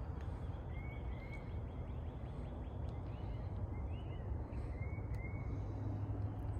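A songbird calling in short, slightly arched notes given in pairs, repeated a few times, over a steady low outdoor rumble.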